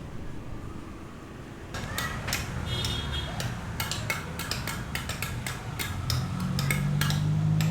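Rapid, irregular metallic clinking and knocking, several strikes a second, beginning about two seconds in over a low background rumble. A low pitched hum joins near the end.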